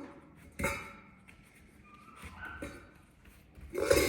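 Metal bowl knocking and clattering a few times as a puppy works at it to get at the food underneath, loudest in a cluster near the end.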